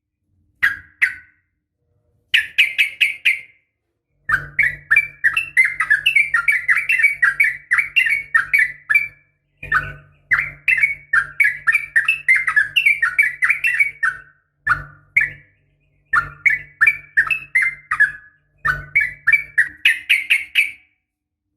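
Yellow-vented bulbul (trucukan) singing: quick bubbling, chattering runs of notes in phrases of a few seconds, split by short pauses. The track is sold as a female calling a male, a lure to set a kept bird singing.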